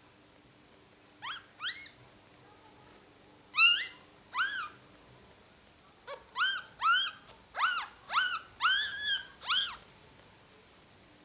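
Phalène puppies squeaking: high, thin arching squeaks that rise and fall in pitch, two short ones, then two more, then a quick run of about eight near the end.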